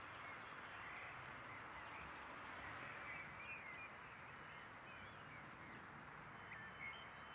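Faint outdoor ambience: small birds chirping in short, scattered calls over a steady background hiss.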